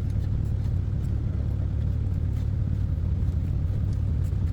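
Engine running steadily with an even low rumble, with faint light ticks above it.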